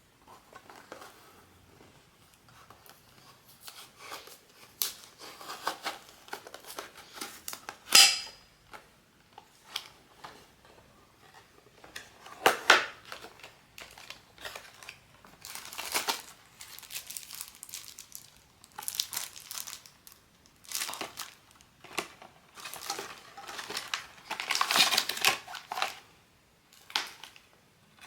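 Blind-box packaging being handled and opened, with crinkling and tearing in irregular bursts. There is a sharp snap about 8 seconds in and a longer stretch of crinkling near the end.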